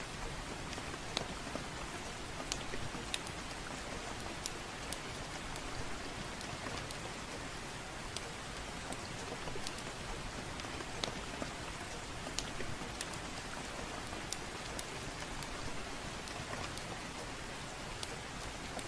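Soft, steady rain with scattered sharp crackling pops from a burning wood fire in a fireplace.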